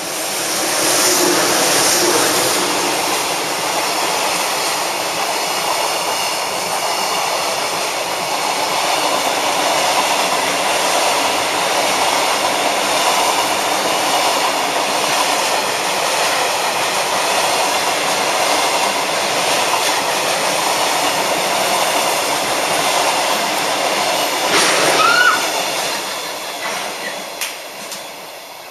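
Freight train of container flat cars and tank cars, hauled by an EH200 electric locomotive, passing: a steady rumble of wheels on rail. Near the end comes a brief rising wheel squeal, then the sound fades as the train goes by.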